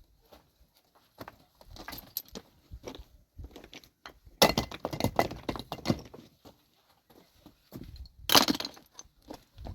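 Rocks clattering and cracking: an irregular run of sharp knocks, with two loudest crashes about four and eight seconds in.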